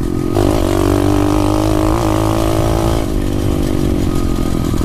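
SSR 125 pit bike's single-cylinder four-stroke engine pulling steadily in fourth gear just after the upshift, then easing off about three seconds in.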